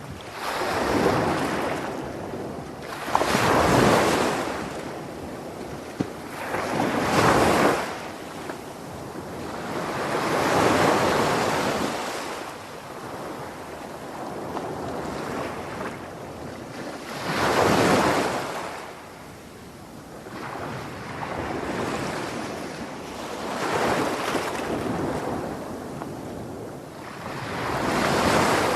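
Sea waves surging in and washing back, a rushing hiss that swells and fades every few seconds, with the strongest surges about 1, 4, 7, 11 and 18 seconds in.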